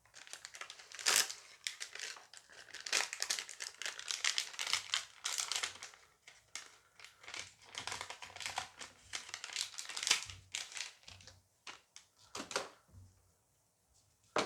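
Plastic booster pack wrapper being crinkled and torn open by hand, a dense, irregular crackling that runs for most of the stretch and dies away near the end.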